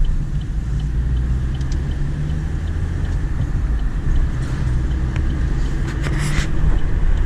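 Car cabin noise while driving: steady low engine and road rumble, with a brief hiss about six seconds in.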